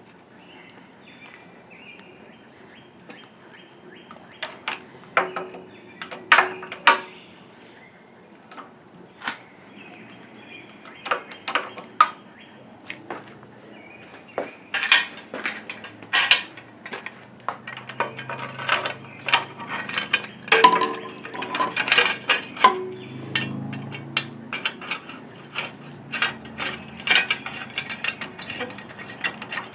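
Hand tools clinking and knocking on metal parts in irregular clicks and taps, sparse at first and much busier from about halfway through.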